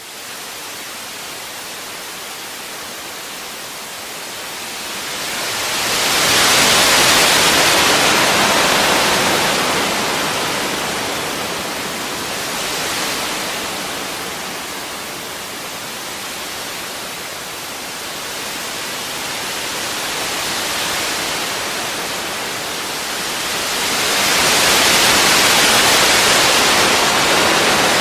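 Small waves washing onto a round-pebble beach: a steady hiss of surf that swells strongly about six seconds in and again near the end, with smaller swells between.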